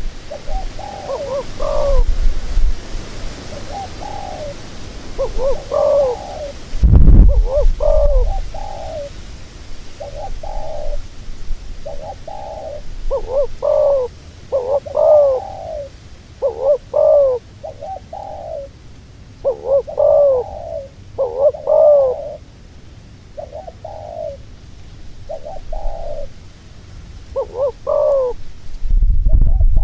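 Doves cooing: short, arched coo phrases repeated about once a second. A low thump comes about seven seconds in, and a low rumble near the end.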